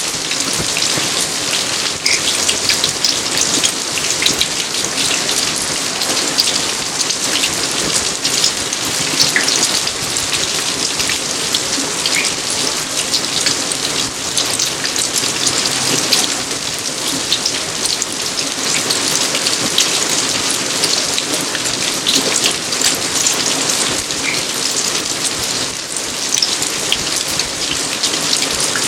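Steady rain falling on surfaces: a dense, even patter of many small drops.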